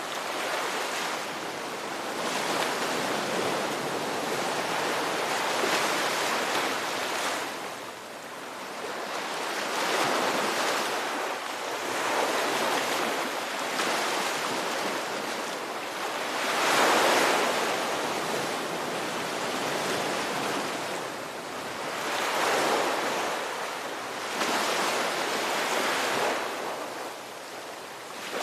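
Ocean waves breaking on a shore, a rush of surf that swells and fades every few seconds, the loudest swell about two-thirds of the way through.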